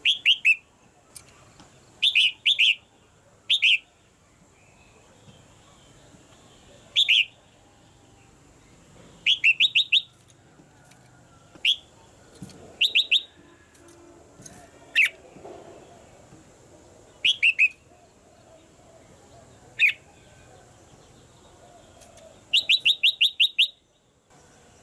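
Red-whiskered bulbul calling: short, sharp downward-sliding notes in quick clusters of one to six, repeated every second or few seconds.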